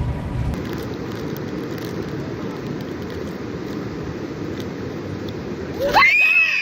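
Steady rushing noise of storm wind and sea. About six seconds in, it gives way to a loud bird call that glides up and down in pitch.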